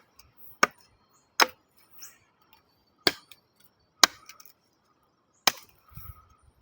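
A series of sharp clicks or knocks at uneven intervals of roughly a second, five strong ones in all.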